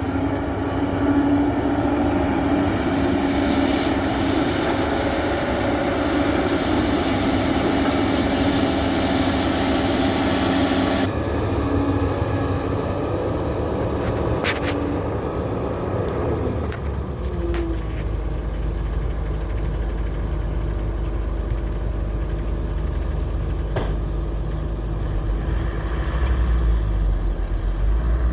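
Heavy construction machinery engines running steadily. The sound changes abruptly about eleven seconds in, and a deep low rumble takes over from around seventeen seconds, with a few sharp clicks along the way.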